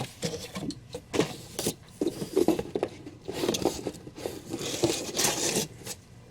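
Comic books and trade paperbacks being handled and shuffled: irregular rustling of paper and plastic sleeves with light clicks and knocks as items are picked up and set down.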